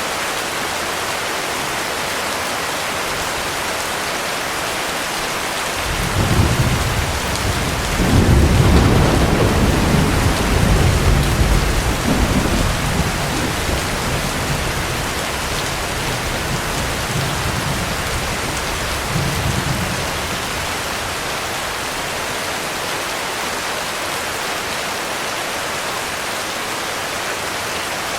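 Steady heavy rain with a roll of thunder. The thunder breaks in suddenly about six seconds in, rumbles loudest for a few seconds, then dies away over the next eight seconds or so while the rain carries on.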